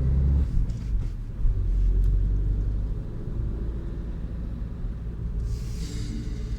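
Opel Meriva 1.7 CDTI four-cylinder turbodiesel idling in the cold as it warms up, a steady low rumble that eases a little about three seconds in.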